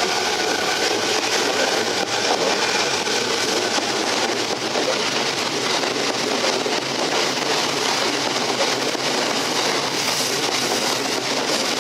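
Electric commuter train running on the rails, with a steady rush of wheel and track noise. A faint motor whine fades out within the first couple of seconds.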